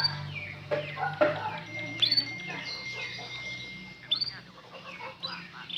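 Domestic canary singing: short chirps and sharp upward-sweeping notes with quick trills, the loudest near the start and about two and four seconds in, over a low steady hum.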